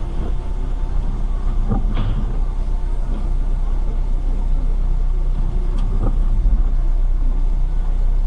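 Steady car engine and road rumble recorded from inside a moving car, with a couple of short knocks about two and six seconds in.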